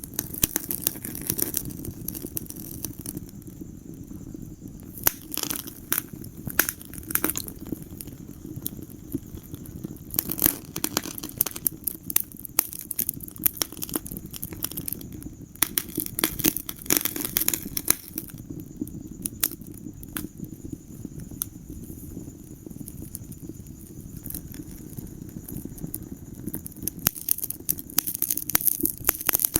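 Wood fire crackling in a fireplace: a steady low rumble of the flames with frequent sharp pops and snaps, coming in clusters every few seconds.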